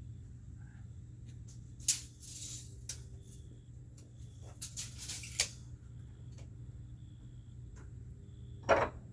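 Scattered light taps and clicks, with a short louder scrape near the end, from a speed square and pencil being handled against lumber while marking a line.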